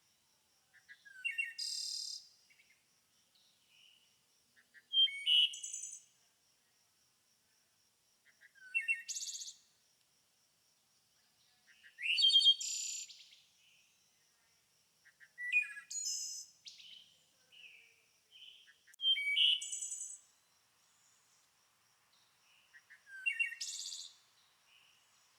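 A songbird singing short, varied phrases of about a second each, seven times, roughly every three to four seconds. A faint steady high tone runs underneath.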